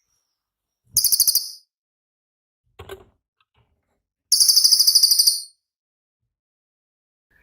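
Cililin songbird giving two short, very high, rapid-fire trills in its 'tembakan' style: a brief one about a second in, and a longer one of about a second about four seconds in.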